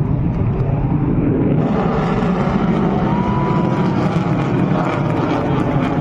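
Aircraft engine noise during a fly-past: a loud, steady rushing sound that grows brighter about a second and a half in.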